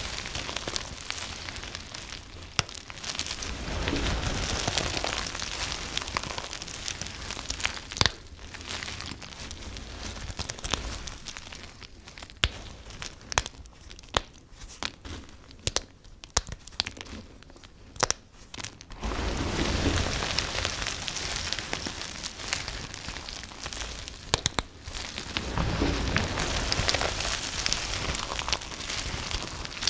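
A knife cutting through bar soap, making a dense, dry crackling and crumbling. For several seconds mid-way it thins out to scattered sharp snaps, then the dense crackling returns.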